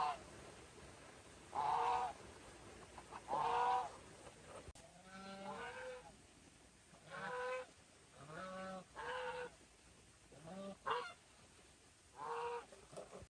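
Geese honking: a series of about ten short, pitched honks spaced irregularly, a second or so apart.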